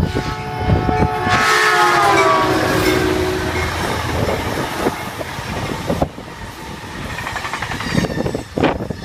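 Caltrain diesel-hauled passenger train passing through the station at speed, its horn sounding for about two seconds from a second in, the chord dropping in pitch as it goes by. The cars then rumble past with wheels clacking over the rail joints.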